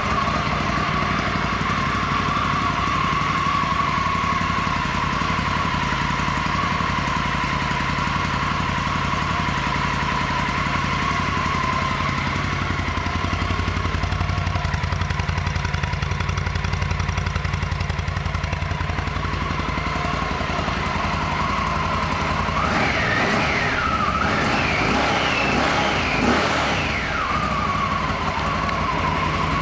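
Stock 2017 Victory Octane's 1200 cc-class V-twin idling steadily just after start-up, its idle easing down slightly in the first few seconds. Near the end it is revved several times, pitch rising and falling with each blip.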